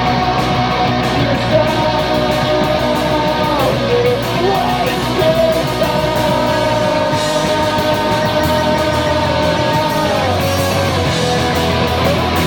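Live rock band playing, with guitars and long held sung notes that slide between pitches.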